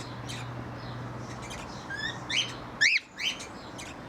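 Aviary birds chirping, with a run of louder upward-curving calls about two to three seconds in, the loudest near three seconds.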